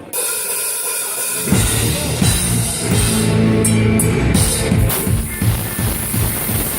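Live metal band starting a song: a thin opening, then about a second and a half in the full band comes in with heavy drums, bass and guitars, in a rough, distorted amateur recording.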